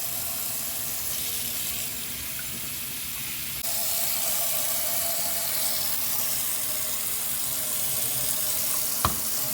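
Water running steadily while hair is being washed. It gets a little louder about three and a half seconds in, and a short knock comes near the end.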